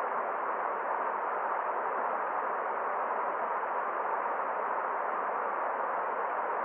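Forest stream running, a steady, even rush of water with no separate splashes or changes.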